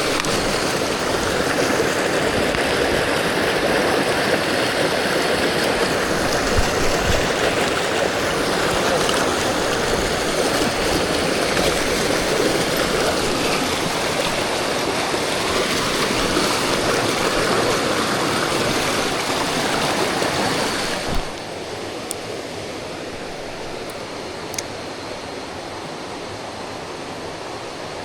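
Mountain stream rushing in a steady wash of water. About twenty seconds in the sound drops suddenly to a quieter, similar flow, with a couple of faint clicks.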